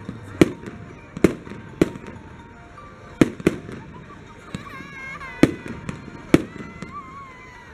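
Fireworks going off: about seven sharp bangs at irregular intervals, some of them in quick pairs.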